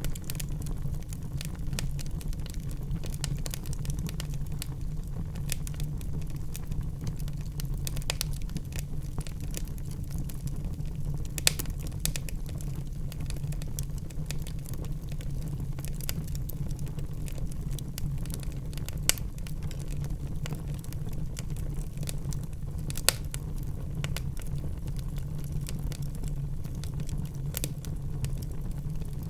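Wood fire crackling in a fireplace: a steady low rumble of burning with frequent small crackles and a few sharper pops, about 11, 19 and 23 seconds in.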